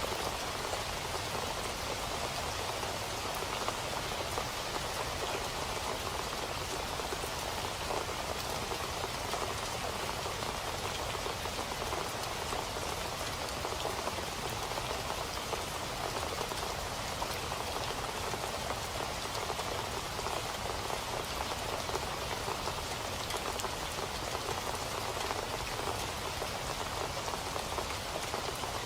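Steady rain falling on a surface, an even hiss full of fine drop patter.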